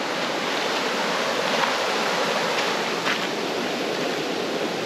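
Creek water running steadily, a full even rush, with a couple of faint clicks.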